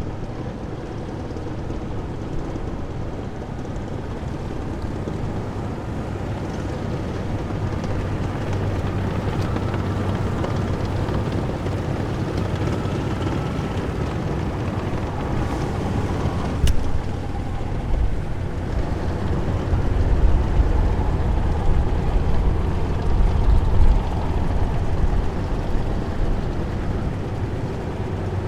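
Heavy military vehicles passing in a column: a steady, loud low engine rumble with a faint whine that slowly shifts in pitch, building up over the stretch and heaviest in the last third. A single sharp click cuts through a little past halfway.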